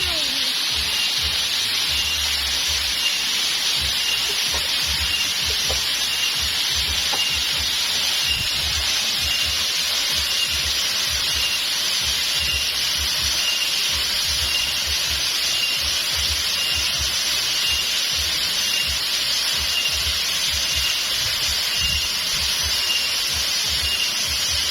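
Steady rush of flowing waterfall water. A faint high chirp repeats about three times every two seconds, and low rumbles come and go.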